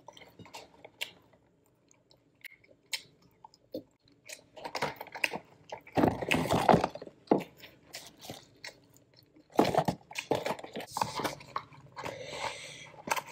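Close-up chewing and crunching of French fries, in clusters of bites with scattered small clicks between them.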